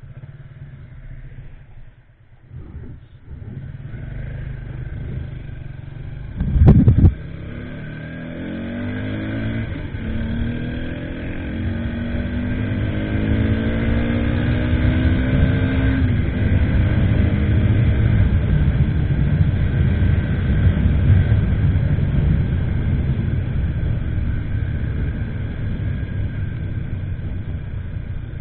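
Motorcycle engine accelerating, its pitch climbing in a few steps as it goes up through the gears, then running steadily at speed with a heavy low rumble. A short loud thump about seven seconds in.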